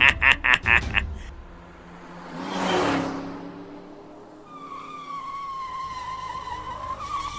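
A cartoon car speeding through town: a fast, loud whoosh as it passes about three seconds in, then a long tyre squeal as it takes a corner. A quick run of pulses, like laughter, dies away in the first second.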